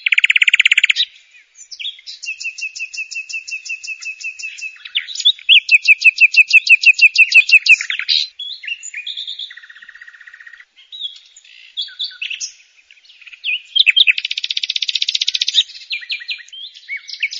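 Small birds chirping and trilling, with rapid runs of repeated high notes; the loudest runs come about five to eight seconds in and again around fourteen seconds in.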